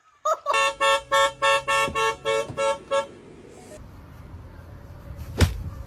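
A horn sounding about ten short, evenly spaced toots, roughly four a second, for about three seconds. Then a faint background, with a single sharp knock near the end.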